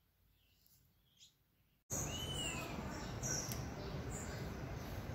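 Near silence, then, about two seconds in, a steady background hiss with birds chirping: one whistled note that rises and falls, and several short, high chirps.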